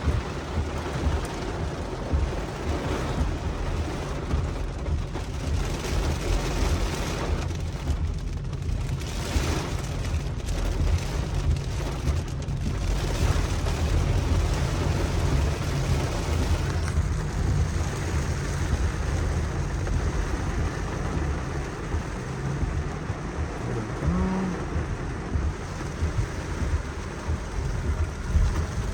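Steady road and wind noise in a moving car: a constant low rumble with a hiss over it.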